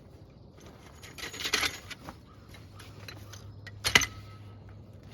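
Small metal objects jangling and rattling for just under a second, then a single sharp metallic clank about four seconds in.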